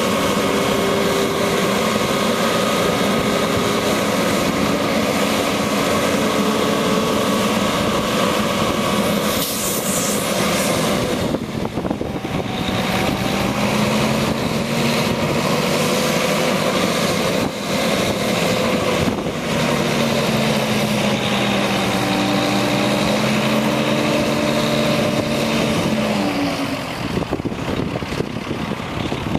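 1997 International 2674 crane truck's diesel engine running, its pitch rising and falling as the engine speeds up and slows. A short hiss comes about ten seconds in.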